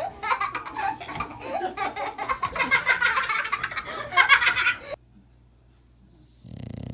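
A person laughing hard in rapid giggles for about five seconds, breaking off suddenly; after a short gap a steady low hum starts near the end.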